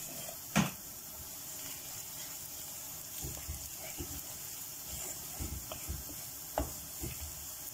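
Chopped onions and ground spices frying in oil in a wok, a steady sizzle, with a sharp knock about half a second in. From about three seconds in a wooden spoon stirs the mix, scraping and knocking against the pan.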